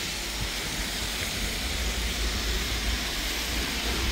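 Steady hiss of rain with a low rumble underneath.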